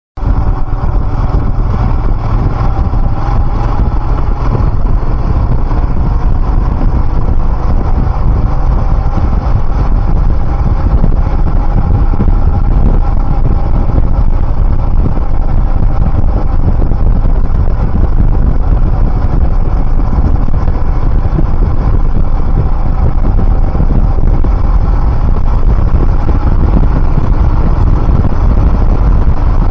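Royal Enfield Himalayan motorcycle riding steadily along a road: engine and road noise, heavy in low rumble and loud throughout.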